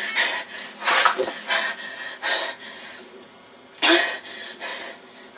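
A boy's short wordless vocal outbursts: two louder ones about a second in and about four seconds in, with quieter sounds between.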